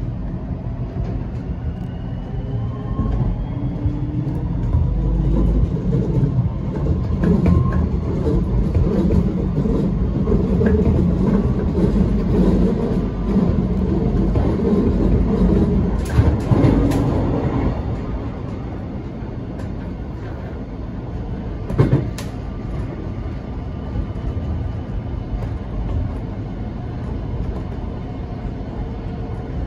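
Metro Trains X'Trapolis electric suburban train heard from inside the carriage while running: a steady rumble of wheels on rail, with a whine rising in pitch in the first few seconds as it gathers speed. A few sharp clacks come just past halfway, and a single knock follows a few seconds later.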